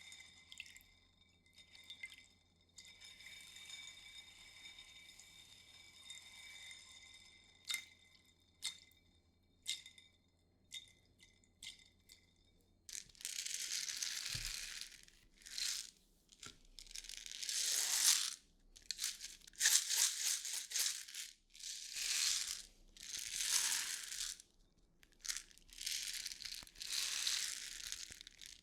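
Close-miked ASMR handling sounds: a few light ticks and taps, then from about halfway a series of loud scratchy rustling strokes, each a second or two long.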